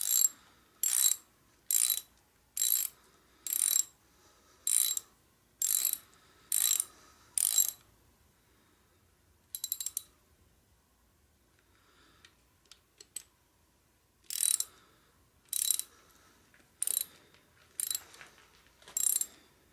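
Hand ratchet wrench clicking in repeated short strokes, about one a second, as engine bolts are run down snug by hand. The strokes stop for several seconds midway, with a single stroke and a few faint clicks, then resume.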